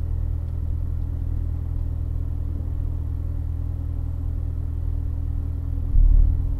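Supercharged 6.2-litre LT4 V8 of a 2015 Corvette Z06 idling with a steady low rumble, heard from inside the car. About six seconds in it grows louder as the car begins to creep forward.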